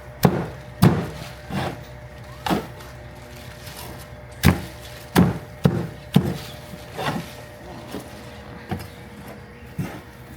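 Cleaver chopping a grilled chicken, about ten sharp irregular chops over a steady low hum.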